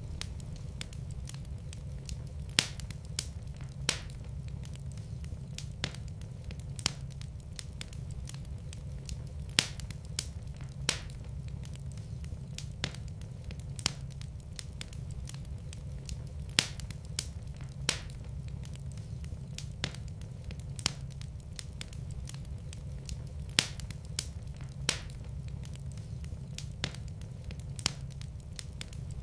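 Wood fire crackling in a fireplace: irregular sharp pops and snaps, the louder ones every second or two, over a low steady rumble of the flames.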